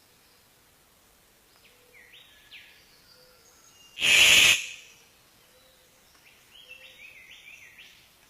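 A songbird singing short phrases of quick whistled notes that slide up and down, twice. Between the phrases, about four seconds in, there is one loud, harsh burst lasting about half a second.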